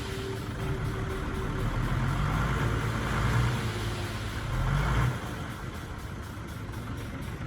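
Construction machine's diesel engine running, louder for a few seconds and then dropping back sharply about five seconds in.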